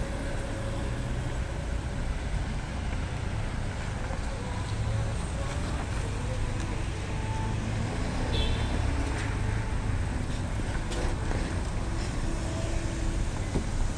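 Steady low rumble of road traffic, with faint scattered voices and short high tones over it.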